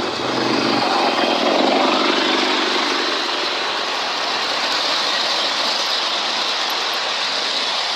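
Diesel freight train passing close by: the locomotive's engine is loudest in the first couple of seconds, then the wagons keep up a steady rolling rumble and hiss on the rails.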